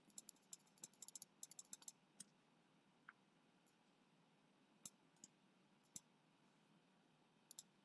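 Faint clicking of a computer keyboard and mouse: a quick run of keystrokes in the first two seconds, then single clicks every second or so.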